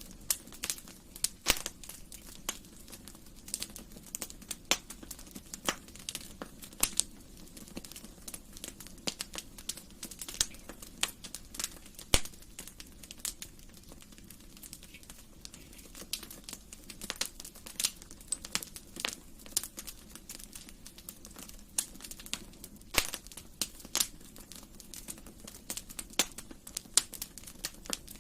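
Wood fire crackling in a fireplace: irregular sharp pops and snaps, often several a second, over a faint steady low background.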